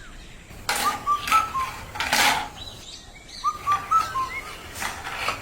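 Small birds chirping in two short runs of quick, upward-hooking chirps, mixed with several brief rustling noises.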